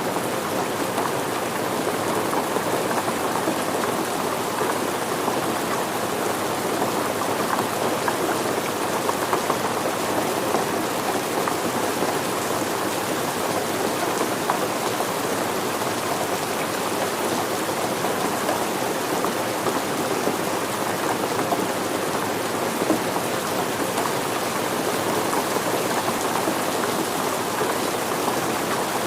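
Steady rain falling on surfaces, an even patter of drops with no change in strength.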